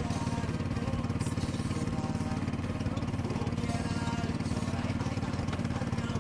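Small engine running steadily at a fast even pulse. Faint music plays underneath.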